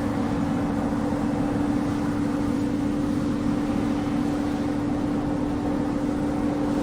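Multirotor drone's propellers humming steadily at one unchanging pitch.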